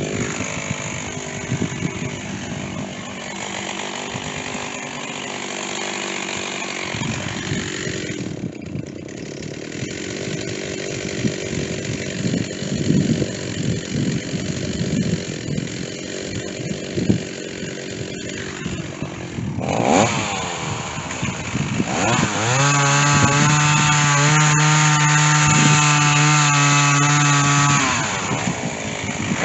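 Stihl chainsaw cutting into a white oak trunk with a dull chain, the engine pulled down and wavering in pitch under load for most of the time. About two-thirds of the way in it revs up to a high steady pitch, running free of the cut, then eases off near the end.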